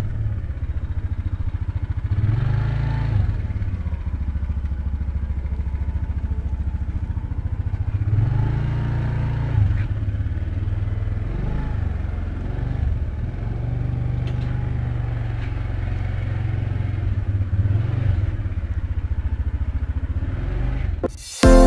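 Motorcycle engine running steadily while riding, its note swelling a couple of times. Electronic music cuts in right at the end.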